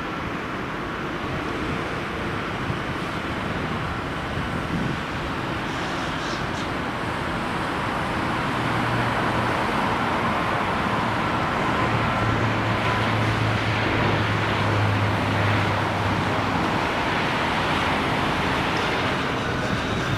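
A steady engine roar that slowly grows louder, with a low hum coming in about halfway through and fading again near the end.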